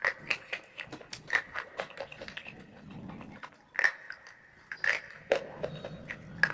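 Crunchy food being bitten and chewed: irregular sharp crunches, several a second, with a few louder bites.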